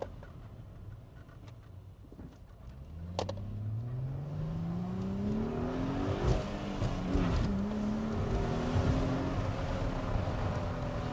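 Chrysler Crossfire's V6 engine, heard from inside the cabin, accelerating hard away from a stop. Its pitch climbs for about three seconds, drops at a gear change about seven seconds in, then climbs again.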